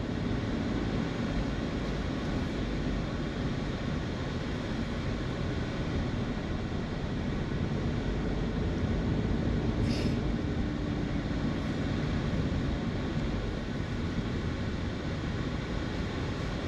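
Car driving, heard from inside the cabin: steady engine and tyre noise with no sharp events apart from a faint tick about ten seconds in.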